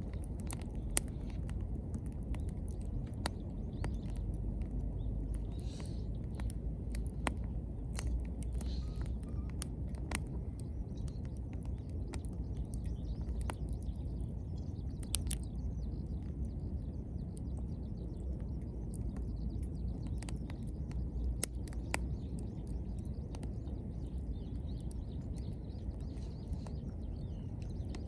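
Wood fire burning in a fire pit: a steady low rush with scattered sharp crackles and pops from the burning wood, some of it green.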